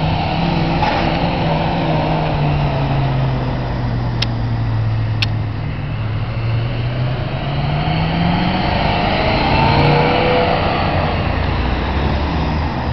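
BMW E92 M3's V8 engine running at low revs as the car pulls away and drives slowly, the pitch sagging over the first few seconds, then rising into a brief rev, the loudest part, about eight to ten seconds in. Two short sharp clicks about four and five seconds in.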